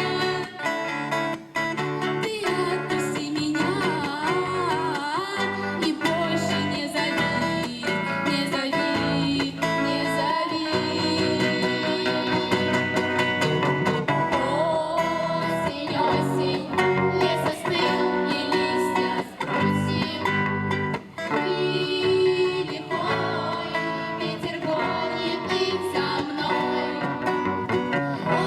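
A girls' vocal ensemble singing a song live with guitar accompaniment.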